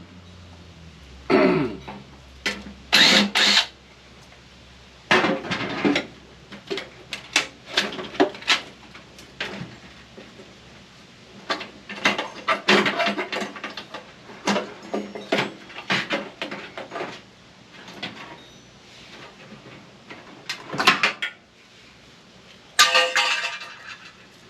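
Microwave's sheet-metal parts and hand tools clanking, clinking and scraping as the appliance is dismantled by hand: irregular knocks and rattles with short scrapes between them.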